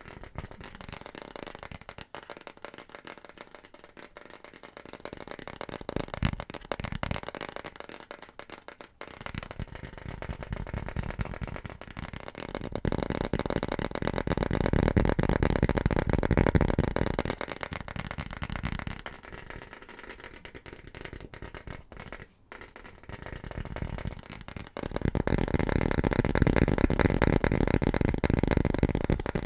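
Very fast, aggressive tapping on a run of different hard household objects, a dense stream of taps with no pauses. The sound of the tapping changes every few seconds as the object switches, and it is louder and heavier in the middle and near the end.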